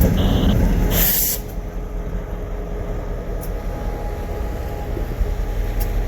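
Union Pacific freight train's diesel locomotive rumbling, with a brief loud hiss of air about a second in, after which a quieter low rumble goes on.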